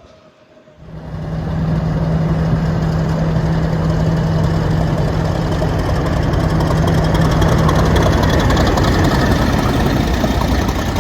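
A railway diesel engine running loudly and steadily, coming in suddenly about a second in, with a low steady hum that fades out near the end over rapid engine pulsing.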